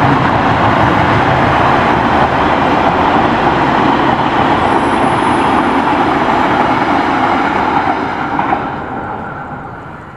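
Passenger train coaches passing close by at speed: a loud, steady rumbling rush of wheels on rails that fades away over the last two seconds as the train moves off.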